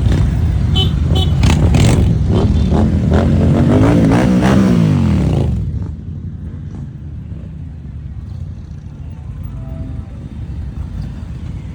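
Motorcycle engine running loud, its pitch rising and then falling around four seconds in. The engine sound cuts off abruptly about halfway through, leaving a quieter background.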